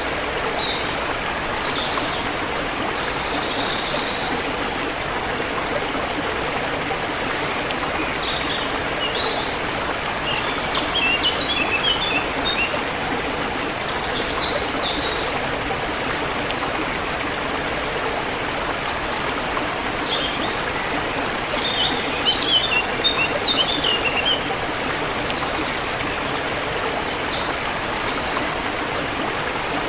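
Forest stream flowing steadily, with songbirds chirping over it in short bursts of quick high notes, busiest a third of the way in and again past the middle.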